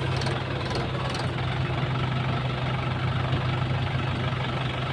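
Mahindra Yuva 585 tractor's diesel engine idling steadily.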